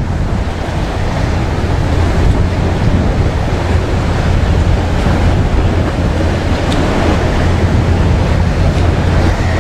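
Wind buffeting the microphone over the steady wash of sea waves. It is a loud, even rush with no distinct events.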